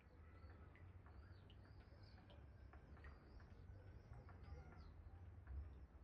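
Faint birdsong: many short, high chirps in quick succession over a low, steady wind rumble, with scattered soft ticks.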